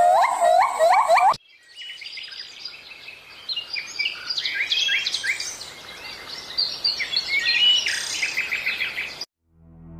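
A loud, rapidly repeated call, about four a second, cuts off abruptly about a second and a half in. Several birds then chirp and call over each other in many short high notes until shortly before the end.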